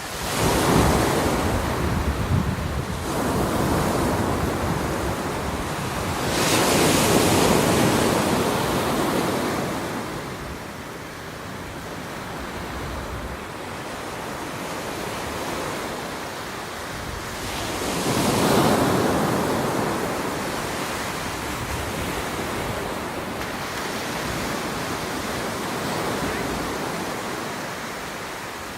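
Ocean waves breaking and washing in, with the surf swelling three times: right at the start, about seven seconds in and again near two-thirds of the way through. Wind rumbles on the microphone.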